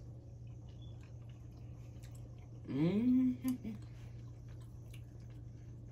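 People chewing meatloaf, with faint soft clicks of eating over a steady low hum. About three seconds in, a short hummed "mmm" rises in pitch and holds briefly.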